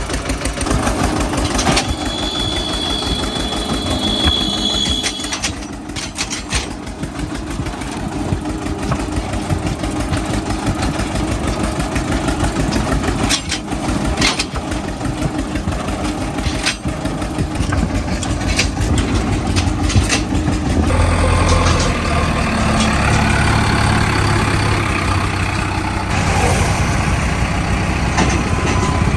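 Eicher 242 tractor engine running with a steady fast pulsing beat, with a few sharp knocks in the middle; about two-thirds of the way through it gets louder and deeper.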